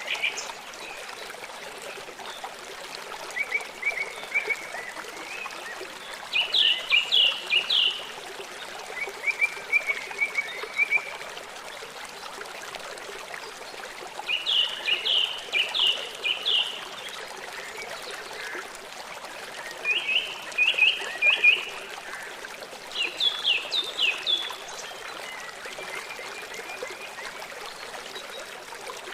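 Small songbirds singing: short bursts of quick repeated chirps every few seconds, with softer trills between them, over a steady background hiss.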